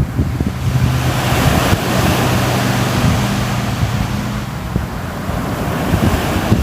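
Sea waves washing on the shore, with wind buffeting the microphone. A low steady hum runs under the surf from about half a second in until a little past the middle.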